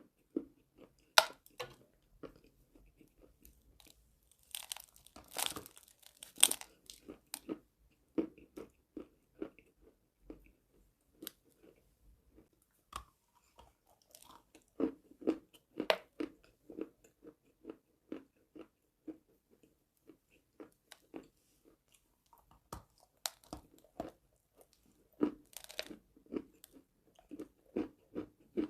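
A person biting and chewing chalk: sharp, crisp bites every few seconds, with steady crunchy chewing between them.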